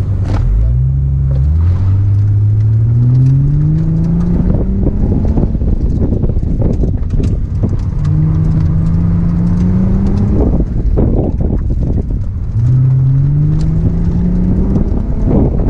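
V6 engine of a 1999–2004 Ford Mustang, heard from inside the open-top cabin on an autocross run. The revs climb three times, about a second in, around eight seconds in and near the end, dropping away between, over steady wind and road noise.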